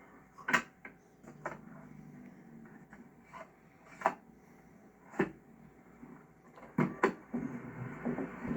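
Sharp plastic clicks and knocks of a car's interior storage lids and latches being opened and shut, about six separate clicks with two in quick succession near the end.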